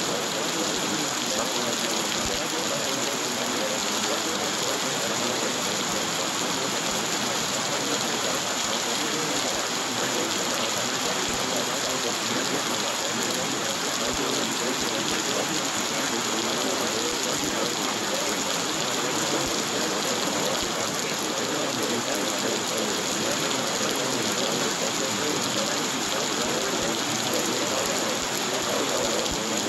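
Recorded rain falling steadily, an even hiss of drops that does not change or break.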